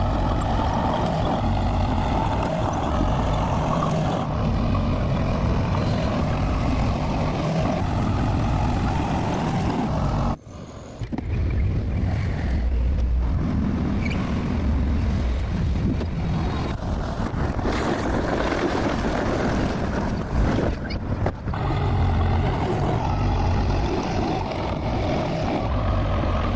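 Heavy earthmoving machine's diesel engine running steadily with a deep rumble. It cuts out abruptly for a moment about ten seconds in, and dips briefly again around twenty-one seconds.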